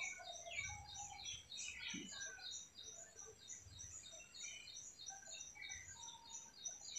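Faint birds chirping: one high chirp repeated quickly, about three or four times a second, with other scattered calls around it.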